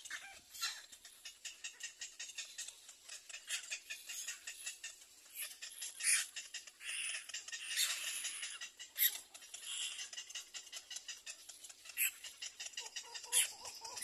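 Birds chirping: a busy run of short, high chirps and clicks, with denser chattering stretches about seven and ten seconds in and a few sharper single calls.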